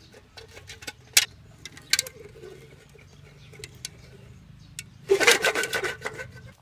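A run of sharp clicks and light rattles, with two louder clicks about one and two seconds in, then a busier clattering rattle for about a second near the end.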